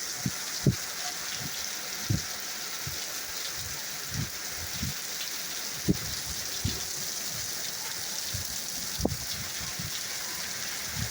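Steady thunderstorm rain hissing, with scattered soft low thuds of heavy drops landing close by.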